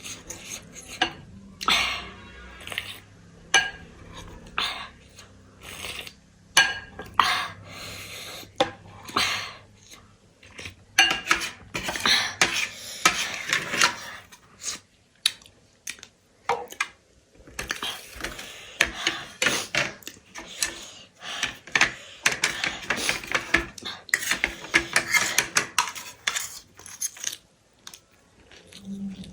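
Cutlery clinking and scraping against a dish while eating: irregular sharp clicks, with longer spells of scraping and stirring about a third of the way in and again in the second half.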